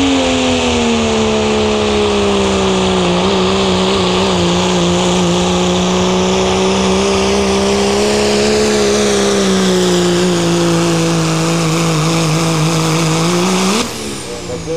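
Pro street diesel pickup truck pulling a sled at full throttle, its engine note slowly sinking in pitch as the load bogs it down. Near the end the engine flares up briefly, then the throttle comes off and the engine drops away.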